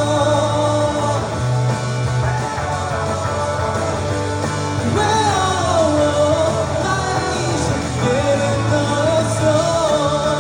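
Live indie pop-rock song: a singer's voice carrying a melody over guitar and bass accompaniment.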